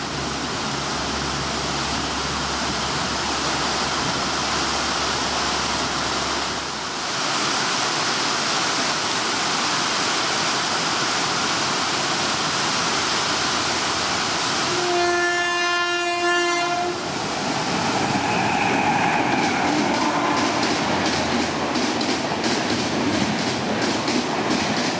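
Heavy rain on the station and the noise of a train that has just gone by. Then a WAP-7i electric locomotive sounds one steady horn blast of about two seconds as it approaches. It rushes past at speed, its wheels clicking rhythmically over the rail joints.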